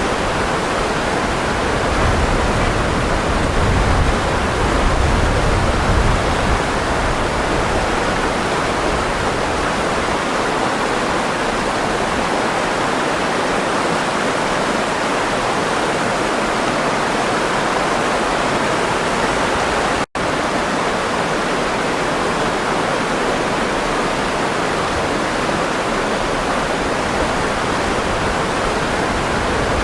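Steady rush of running water, a stream or waterfall, dense and even, with more low rumble in the first few seconds. About two-thirds of the way through it cuts out for an instant, then carries on.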